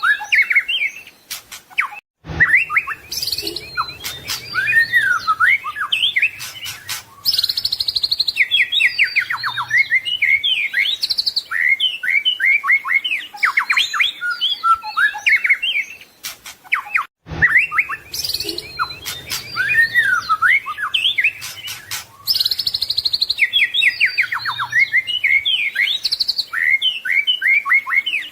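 White-rumped shama singing a loud, fast, varied song of whistles, trills and chattered notes, full of mimicked phrases. The same passage repeats about every fifteen seconds, with a brief drop-out before each repeat.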